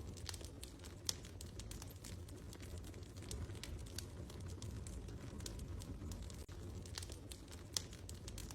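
Wood fire crackling in a fireplace: scattered sharp pops and snaps over a steady low rumble, with a louder pop about a second in and another near the end.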